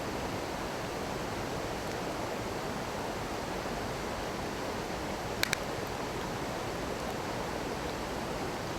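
Small stream running with a steady rush of water, and a bonfire giving two sharp pops close together about five and a half seconds in.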